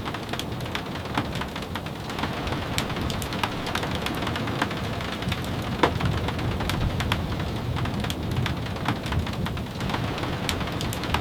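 Steady rain falling, with scattered sharp clicks throughout and a steady low rumble underneath.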